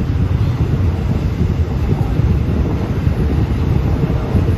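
Passenger train rolling along a station platform, heard from its open window: a steady low rumble with wind buffeting the microphone.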